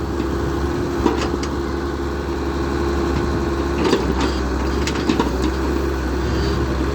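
Diesel engine of a Caterpillar E120 excavator running steadily, with a few short knocks now and then.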